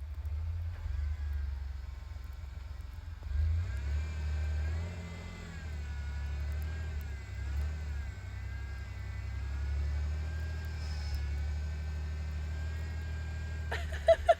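Pickup truck engine running and revving, its pitch rising and falling, as the truck struggles in snow instead of doing donuts. It ends with a few sharp knocks.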